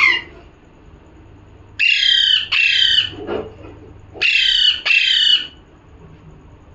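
Pet parrot squawking: two pairs of harsh calls, each falling in pitch, about two seconds apart, with the tail of another call at the very start.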